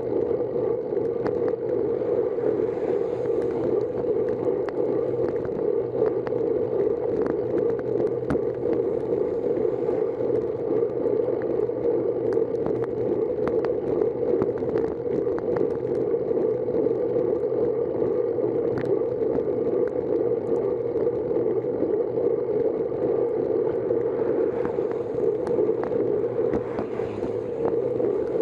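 Steady rushing wind and tyre noise from a bicycle ride as heard by a camera on the bike, with many small ticks scattered through it.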